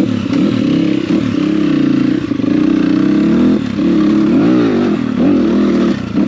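Dirt bike engine running under way, its pitch rising and falling with the throttle, with a quick rev up and back down about four and a half seconds in.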